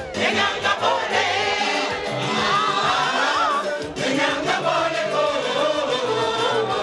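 A group of voices singing together to music over a repeating bass line, with a short break about four seconds in.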